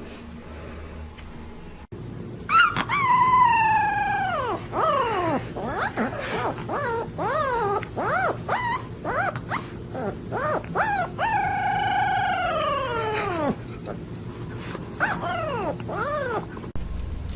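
A dog howling and whining: two long howls that fall in pitch, one about two and a half seconds in and another about two-thirds of the way through, with many short rising-and-falling yips and whines between them.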